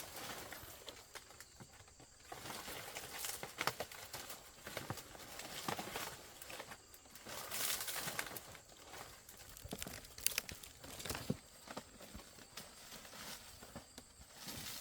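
Irregular rustling and crinkling with scattered light clicks and knocks, as of materials being handled and moved about.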